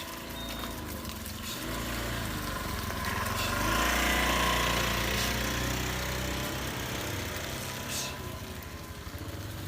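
A small engine running steadily, growing louder about three to four seconds in and then easing off.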